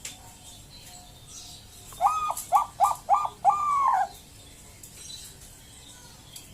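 A Bangkok-type perkutut (zebra dove) cooing one song phrase about two seconds in: three short notes and then a longer, drawn-out final note.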